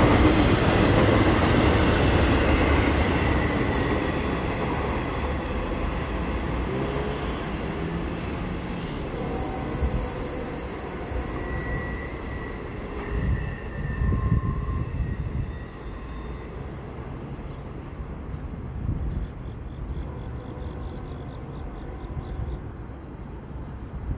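CSX intermodal freight train's double-stack well cars rolling past on the rails and fading into the distance as the end of the train goes by. Short high-pitched wheel squeals ring out now and then as it recedes.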